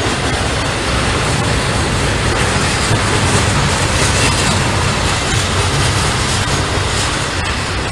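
Norfolk Southern freight train rolling past, a loud steady rumble of wheels on rail with faint clicking from the rail joints.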